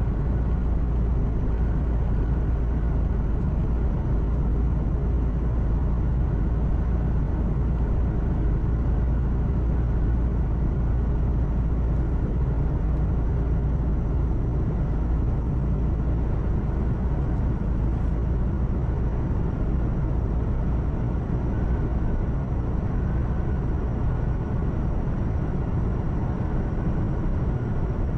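Truck cab interior while driving: a steady, deep engine and drivetrain drone with road and tyre noise. The lowest rumble eases slightly near the end.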